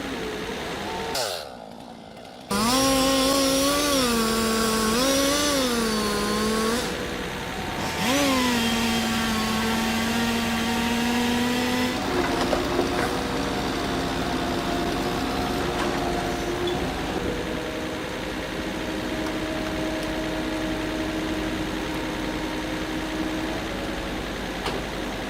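Motor of tree-cutting equipment running and revving up and down twice, then held at a steady high pitch. About halfway through it cuts abruptly to a lower, steadier engine hum.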